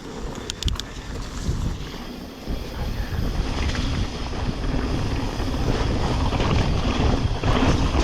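Wind buffeting an action camera's microphone, with the rumble of a mountain bike descending a muddy singletrack trail, growing louder from about two and a half seconds in as speed builds. A few sharp clicks sound about half a second in.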